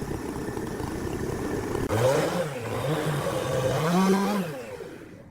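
Small engine running, then revving up and down twice, the second rev higher, before dropping away near the end.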